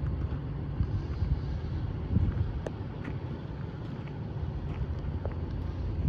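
Steady low vehicle rumble with wind on the microphone, and a few light clicks.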